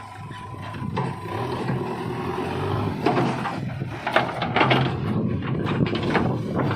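Diesel engine of a JCB 3DX backhoe loader running steadily at work. From about three seconds in, it is joined by a series of irregular knocks and clatter.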